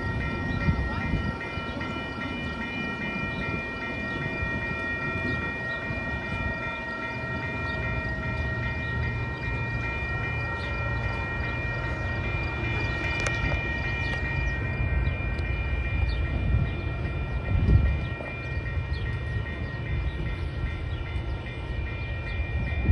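Metra commuter train of bilevel gallery cars rolling away past the station platform, a steady low rumble of the cars on the rails. Several steady high ringing tones sound over it, stopping at the end, and there is one louder bump about eighteen seconds in.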